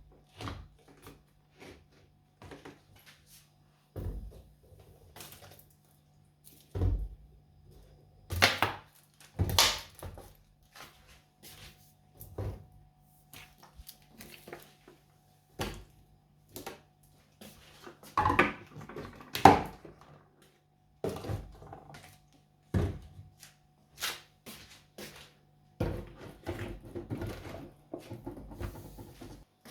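A string of irregular knocks, clicks and thunks from objects being handled and set down indoors, with a steady low hum underneath that stops a few seconds before the end.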